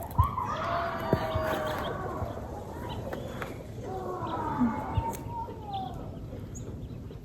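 An animal calling twice, each a long pitched cry of a second or two, about three seconds apart, with scattered light clicks.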